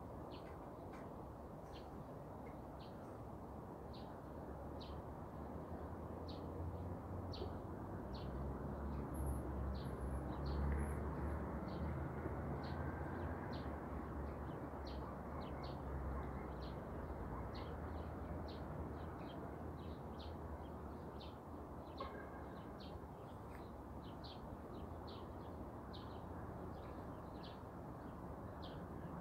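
Birds chirping over and over, short high chirps at about two a second, over a steady low rumble that swells in the middle.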